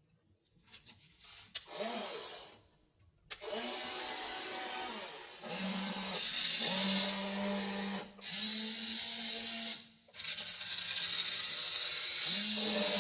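A WLtoys RC excavator's small electric motors and gearboxes whining in several runs of a few seconds each. Each run starts with a quick rise in pitch as the arm and bucket move. A few faint clicks come before the first run.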